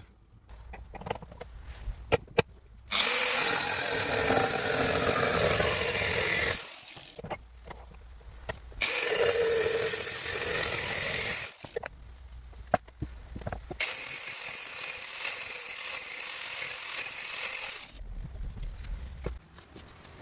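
A power tool runs in three spells of three to four seconds each, with clinks and clicks of tool work in the gaps between.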